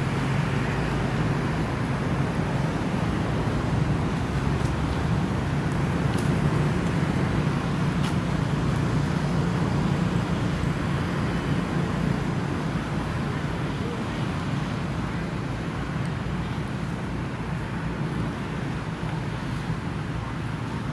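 Steady outdoor background rumble with faint voices mixed in.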